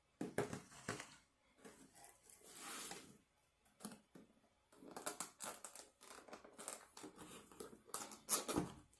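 Takeout food packaging being handled and opened: irregular rustling and crinkling, with a longer tearing sound between two and three seconds in.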